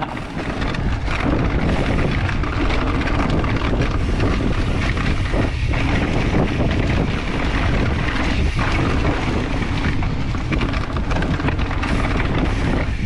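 Steady wind rush buffeting the microphone of a mountain biker's camera while riding, with a continuous low rumble of the bike moving over the trail.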